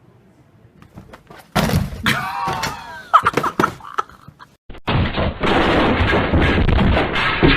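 Loud crashing and smashing sound effects, then, from about five seconds in, a dense blast of very loud distorted noise.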